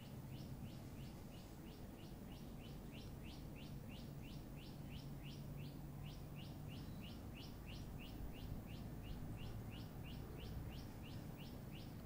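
A small bird calling a rapid, evenly repeated high chirp, about three to four notes a second, over a low background hum; the chirping stops near the end.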